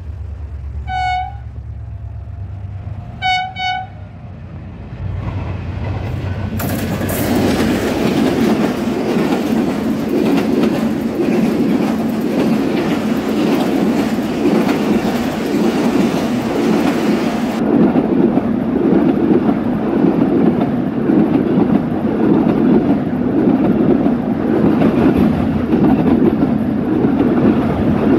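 A Pakistan Railways HGMU-30 diesel-electric locomotive sounds its horn: one short blast about a second in, then two quick blasts. From about six seconds on, the passenger train passes close by, loud, with a steady rumble and a rhythmic clatter of wheels over the rail joints.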